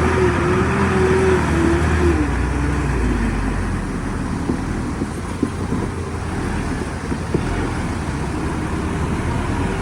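Heavy diesel engine of earthmoving machinery running steadily, with a wavering pitch in the first couple of seconds and a few short knocks in the middle.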